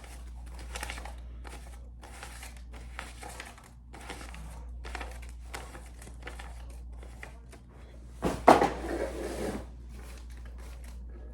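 Paper banknotes being handled and counted: a run of short, dry rustles and flicks, about one or two a second, with a louder crinkling rustle about eight seconds in.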